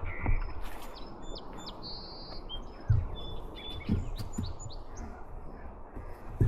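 Small birds chirping and trilling, many short high calls scattered through, one of them a brief buzzy trill, over a low rumble with a few dull knocks from the trike rolling along the trail.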